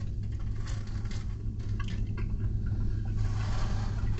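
Steady low hum of a car heard inside the cabin, with faint soft, wet chewing sounds of someone eating.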